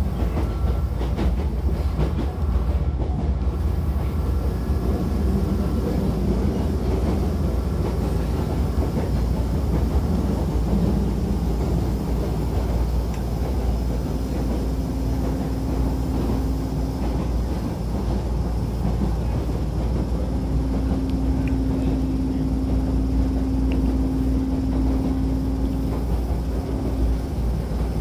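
Commuter train running, heard from inside the passenger car: a steady low rumble of wheels on rail and car body. Partway through, a steady hum joins in twice, the second time for several seconds.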